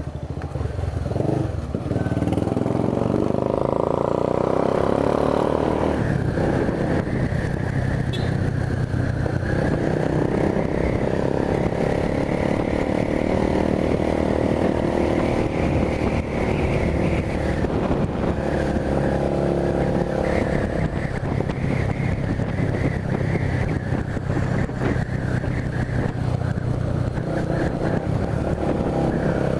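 Honda CB 300 motorcycle's single-cylinder engine running under way, its revs rising and falling in long swells, with a steady rumble of wind and road noise.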